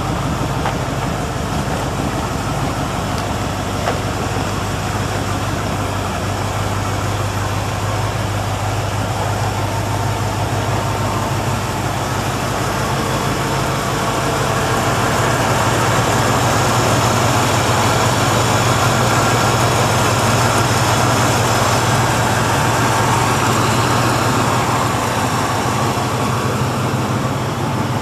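Corvette's V8 engine idling steadily, a little louder through the middle.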